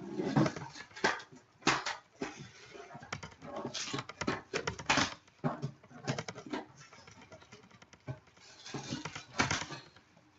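Packaging being opened by hand: irregular crackling and rustling of a shrink-wrapped cardboard collectibles box being unwrapped and handled.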